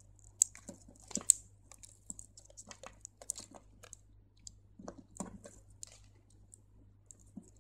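Crystal beads clicking together and beading thread rustling as they are handled and the thread is drawn through the beads: a scatter of small irregular clicks and rustles, the sharpest about half a second and a second and a quarter in.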